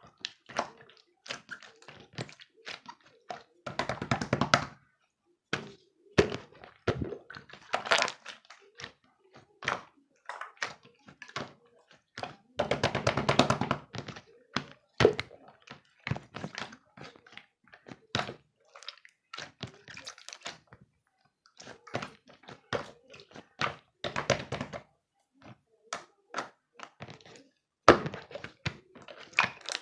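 Irregular taps, knocks and thunks of objects being handled, with two denser runs of rapid noise about four and thirteen seconds in.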